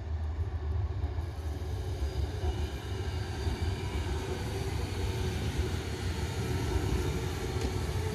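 Aichi Loop Railway electric train in Ghibli wrapping running past on the line, a steady rumble of wheels on rails with faint high tones, growing slightly louder as the cars go by.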